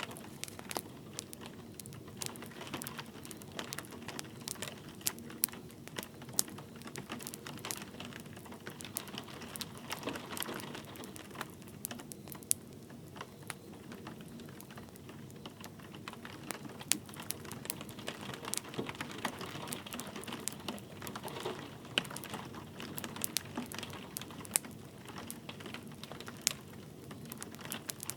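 Wood fire crackling with frequent sharp irregular pops, over a steady patter of light rain.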